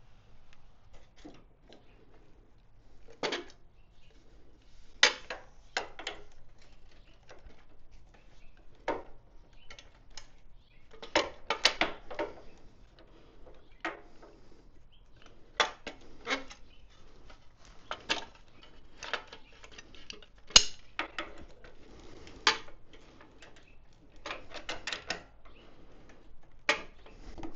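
Hand tools working on the motorcycle's metal parts: irregular sharp clicks and clinks of tools against bolts and metal, with a quick run of clicks near the end.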